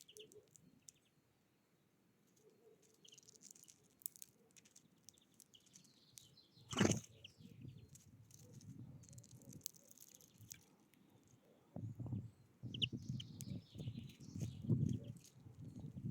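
Small wild birds at a feeder: brief high chirps and fluttering wings, with scattered light taps and one louder knock about seven seconds in. Low rumbling bursts fill the last few seconds.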